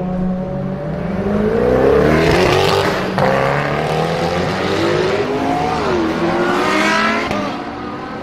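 Koenigsegg Agera RS twin-turbo V8 revving up hard, its pitch climbing, with a sharp crack about three seconds in. It dips, climbs once more, then fades.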